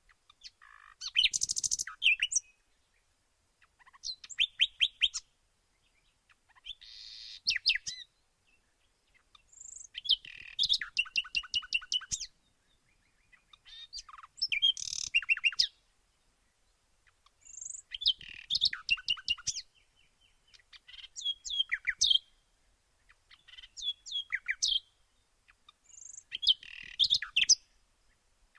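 Birds chirping in bouts of rapid, high notes that repeat every two seconds or so, with short silences between the bouts.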